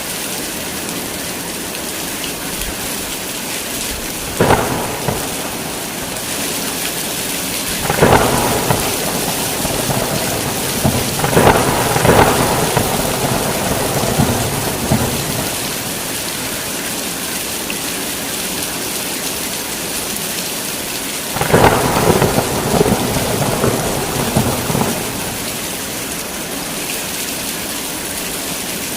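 Heavy rain falling steadily, with thunder cracking and rumbling: a short clap about four seconds in, longer rolls around eight to thirteen seconds, and another roll from about twenty-one to twenty-five seconds.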